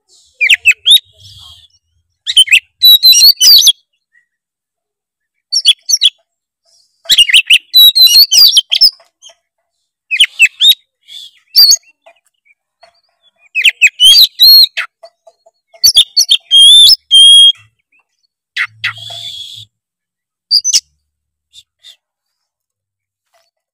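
Oriental magpie-robin (kacer) singing a lively, varied song packed with mimicked calls (isian): bursts of quick whistles, trills and chirps with short silent gaps between phrases. The song stops a couple of seconds before the end.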